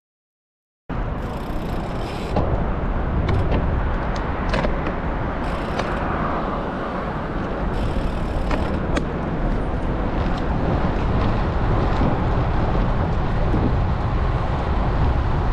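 Wind buffeting and road rumble on a bike-mounted action camera's microphone during a road ride, starting abruptly about a second in. A few brief bursts of high hiss and some sharp clicks sit on top of it.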